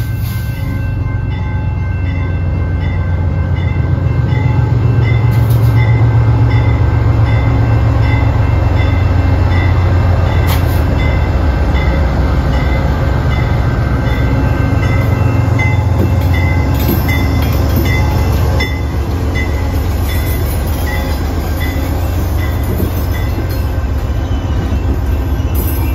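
Amtrak train led by a GE Dash 8 diesel locomotive passing close by, its engine a loud low rumble that peaks a few seconds in and drops a little near the end. A grade-crossing bell dings steadily over it.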